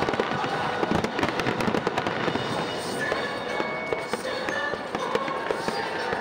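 Aerial fireworks display: a rapid run of shell bursts and crackles, thinning out after about two seconds.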